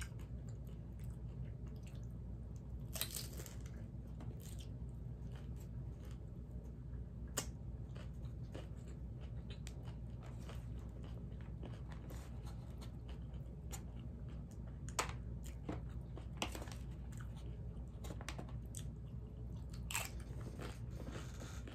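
Close-miked chewing and biting of crunchy hard-shell ground beef tacos: a soft, continuous chewing with sharp crunches of the fried corn shell every few seconds, over a steady low hum.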